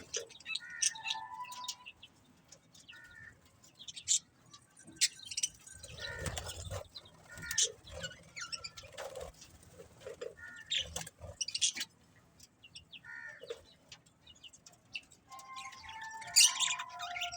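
Budgerigars chirping intermittently: scattered short chirps, warbled notes and clicks with quiet gaps, and a louder flurry of chirping near the end.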